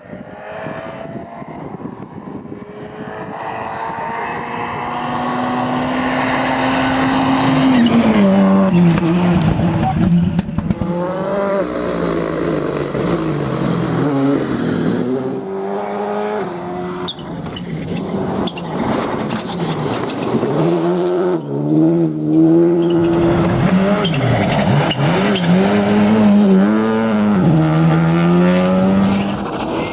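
Rally car engine approaching from a distance and rising in pitch, then dropping and climbing through the gears as it brakes, corners and accelerates hard, with a few sharp pops and some tyre squeal. About halfway through the engine note dips, then rises again under full throttle with repeated gear changes.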